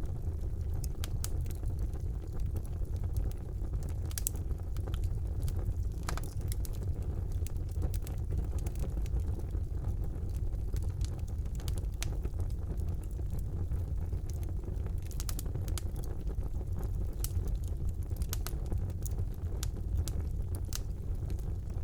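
Wood fire burning in a fireplace: a steady low rumble of the flames with irregular sharp crackles and pops of burning logs.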